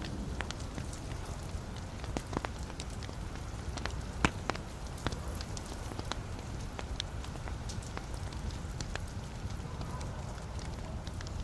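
Logs burning in a fireplace, crackling: a steady low rumble of flames with frequent sharp pops and snaps, one louder pop about four seconds in.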